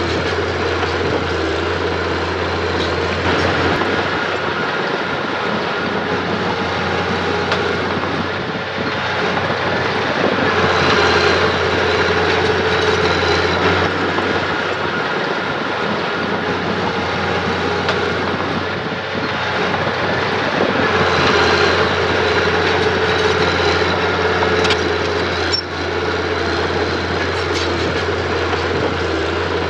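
Mini bulldozer's diesel engine running steadily with a mechanical whine over it, swelling louder twice as the machine works under load.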